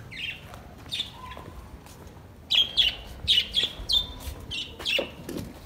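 Birds chirping: a few scattered high chirps, then a quick run of short chirps from about two and a half seconds in.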